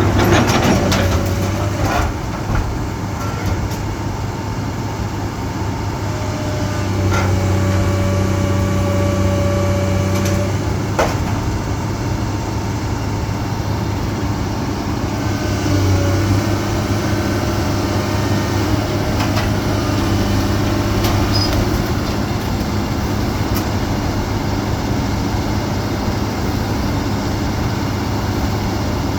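Heavy diesel construction machinery running with a steady low engine drone. Higher whining tones come and go over it, and a few sharp knocks sound near the start and at about 11 seconds in.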